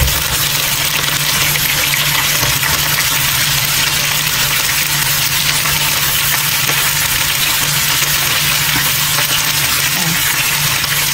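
Chopped blue swimmer crab and ginger sizzling in hot oil in a frying pan as they are stirred: a steady frying hiss over a low hum.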